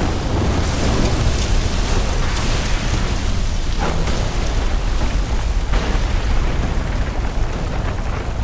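Layered sound-design ambience of a meteor storm: a dense, continuous deep rumble mixed with rain-like hiss and crackle, with a few sharper impact hits breaking through.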